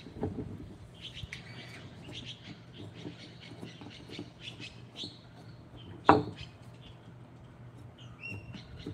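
Birds chirping in the background over a low steady hum, with a single sharp knock about six seconds in.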